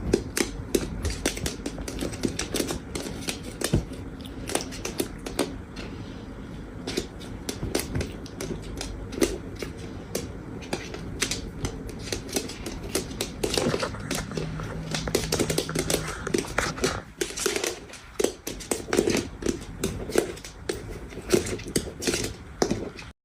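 Pig eating feed: rapid, irregular crunching and smacking of its jaws, several chomps a second, over a low steady rumble.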